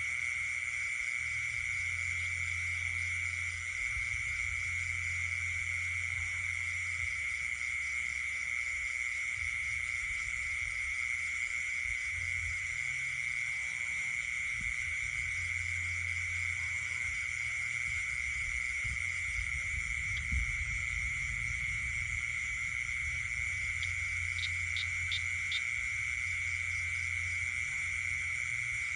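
Night chorus of insects and frogs: a steady, high-pitched insect drone over a continuous wash of other insect calls. A low croaking comes and goes, and near the end there are a few short runs of quick high clicks.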